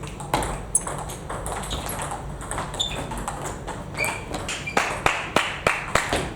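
Table tennis rally: the celluloid-type plastic ball clicking off rackets and table, sparse hits at first, then a quick exchange of sharp ticks about three a second in the second half.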